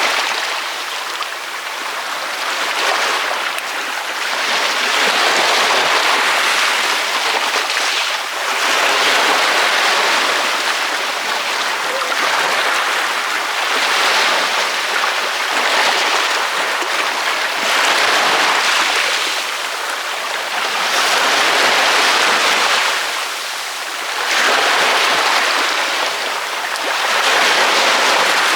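Ocean waves breaking on a beach: a continuous hiss of surf that swells and eases every few seconds.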